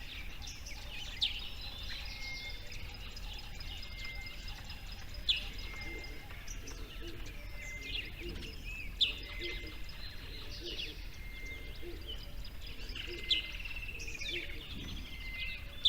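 Several birds chirping and calling over a steady background hiss, with a sharp, louder chirp every four seconds or so.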